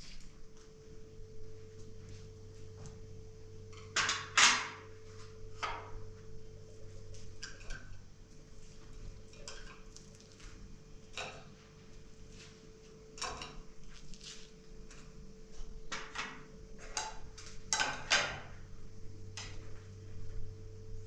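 Scattered clinks and knocks of cooking utensils against pots and dishes, loudest about four seconds in and again near eighteen seconds, over a steady low hum.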